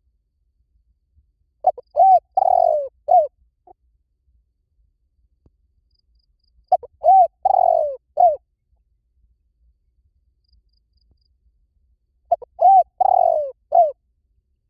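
Spotted dove calling: three cooing phrases about five seconds apart, each a quick run of coos with a longer falling coo and a short final note.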